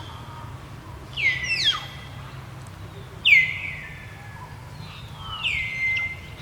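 Repeated high-pitched animal calls, each one sliding steeply down and then holding a steady whistling pitch. The loudest comes a little past the middle, over a low steady hum.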